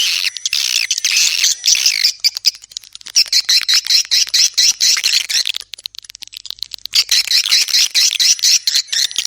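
Swiftlets twittering: fast, dense, high-pitched chirps in bursts, broken by two short pauses about two and six seconds in.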